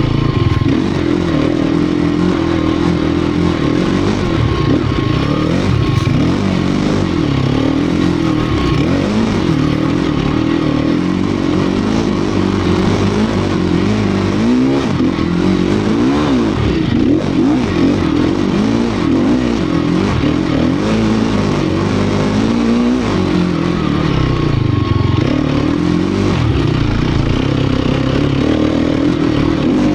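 Sherco 250 SEF Factory dirt bike's single-cylinder four-stroke engine being ridden hard off-road, its revs rising and falling every second or two without a break.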